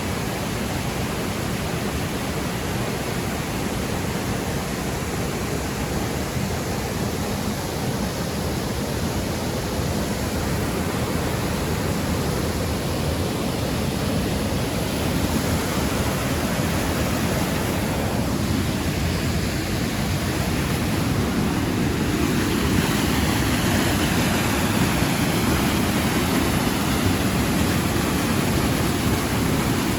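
Steady rushing noise of the Triberg waterfalls' cascading water, growing a little louder in the second half.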